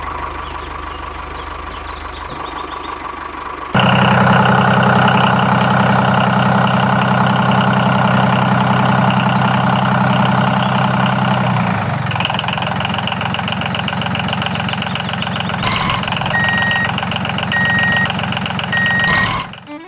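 A small engine running steadily, as from a DIY mini tractor. It gets suddenly louder about four seconds in and shifts in tone later on. Three short, even beeps sound near the end.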